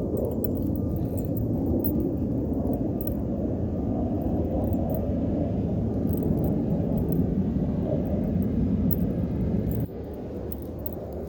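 Wind buffeting the microphone, a low, uneven rumble that drops off suddenly near the end.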